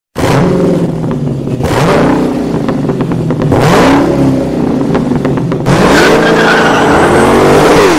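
Car engines revving hard, pitch rising and falling, in several short clips cut together one after another.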